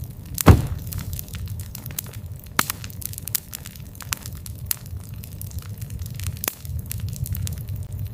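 Campfire crackling and popping over a low, steady rumble of flame, with one loud pop about half a second in.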